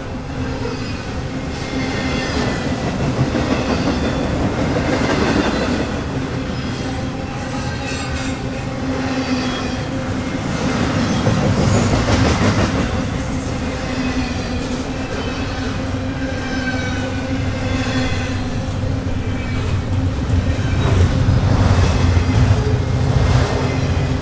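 A train rolling past at close range: a steady rumble of steel wheels on the rails, with high-pitched wheel squeal running through it and the noise swelling and easing as the cars go by.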